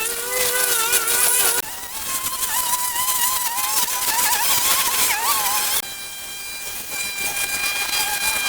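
Small petrol engine running at high revs, its whine wavering up and down as the load changes, and jumping abruptly to a new pitch twice.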